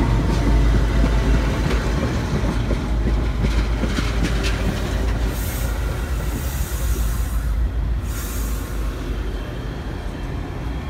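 A Metra commuter train's stainless-steel bi-level coaches rolling past close by: a steady low rumble of wheels on rail, with clicks over the rail joints and short stretches of high-pitched wheel hiss around the middle. The sound slowly fades as the train draws away.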